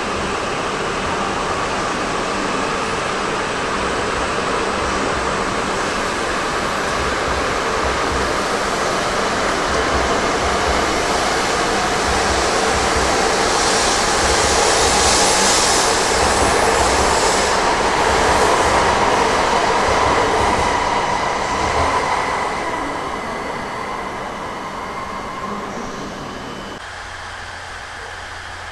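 A train running past on the line, growing louder to a peak around the middle and then fading, with a whine that slides in pitch. The rumble drops away near the end.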